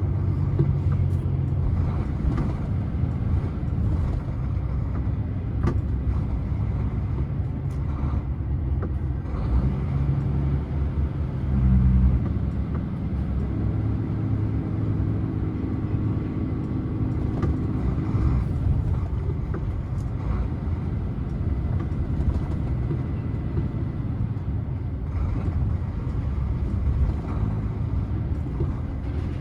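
Motor vehicle on the road: a steady low engine and road rumble, with a brief louder surge about twelve seconds in and a steady hum held for several seconds after it.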